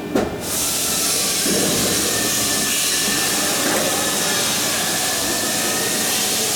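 A click, then a steady hiss of compressed air from a pneumatic air tool in a sheet-metal workshop.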